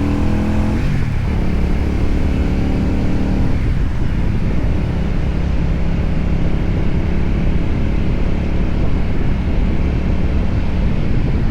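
Benda Napoleon 500 motorcycle engine running under way, with heavy wind noise over it. The engine note dips and climbs again about a second in, then holds steady.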